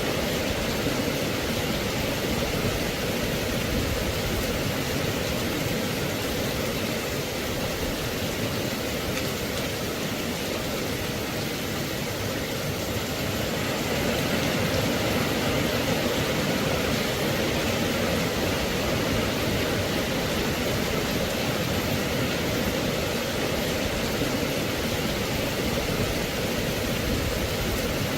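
Steady rain falling, an even hiss with no distinct drops or thunder, growing slightly louder about halfway through.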